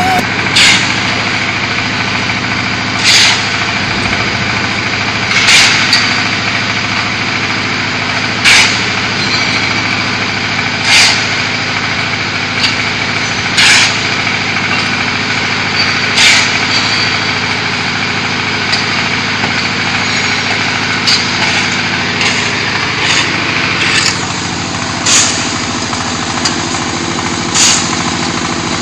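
QT4-30 diesel-driven hydraulic concrete hollow block machine running: a steady engine hum, with a short hiss breaking in about every two and a half seconds.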